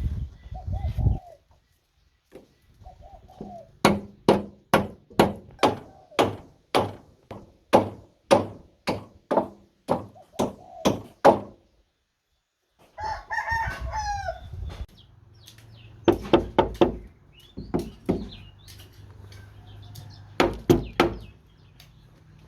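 A chicken and a rooster crowing and clucking, with a long run of sharp knocks, about two a second, that fade a little and stop for a moment, then a few more knocks near the end.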